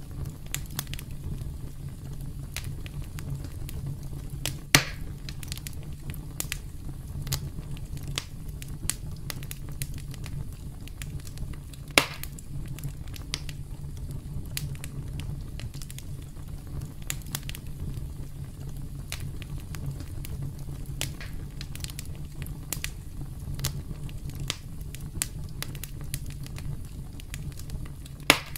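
Campfire crackling: a steady low rumble of burning with many small crackles over it, and three loud sharp pops, about five seconds in, about twelve seconds in, and near the end.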